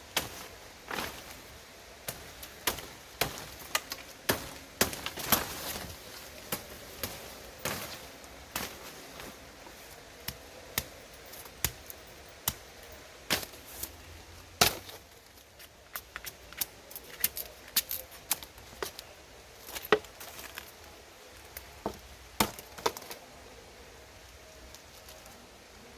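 A blade chopping in irregular sharp strikes, sometimes several in quick succession, then pausing, thinning out toward the end.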